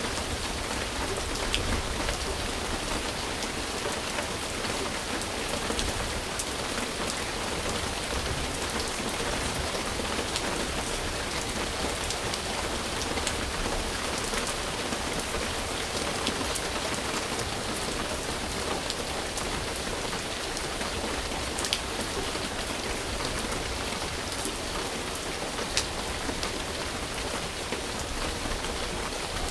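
Steady rain falling on a surface, an even hiss with many small drop ticks and a couple of sharper drips near the end.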